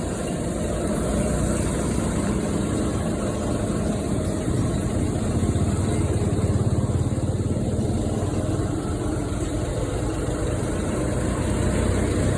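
HOWO water tanker truck's diesel engine running steadily during a dry-run test, a little louder after the first second.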